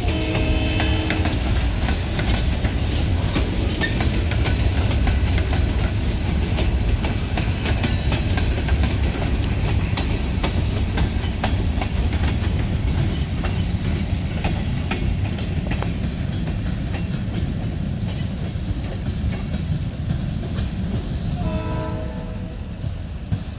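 Freight train moving on the track: a steady heavy rumble with a constant run of wheel clicks. A short locomotive horn blast sounds at the start and another near the end.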